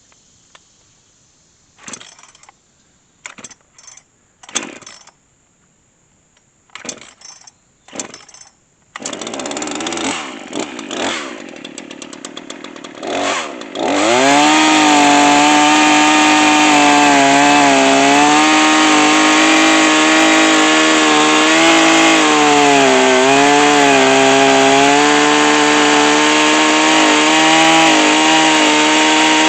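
Chainsaw mounted in an Alaskan chainsaw mill, cutting hardwood. A few short knocks come first; the engine catches about nine seconds in and runs unevenly. From about fourteen seconds it runs loud and steady at full throttle, its pitch sagging a little under load as the chain cuts.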